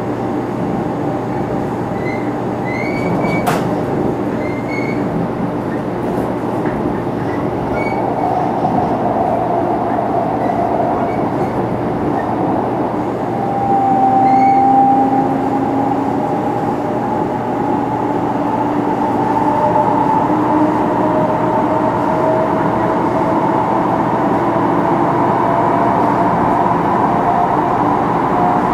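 Running sound inside a 500 series Shinkansen motor car: steady rolling noise with a faint whine from its Toshiba GTO VVVF inverter and traction motors. In the second half the whine's pitch rises slowly as the train picks up speed.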